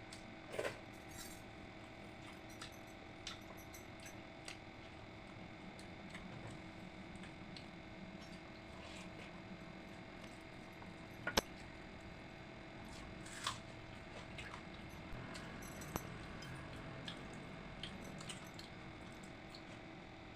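Eating sounds: scattered soft wet smacks and clicks of chewing and handling watered rice (pakhala), with one sharper click about eleven seconds in, over a faint steady hum.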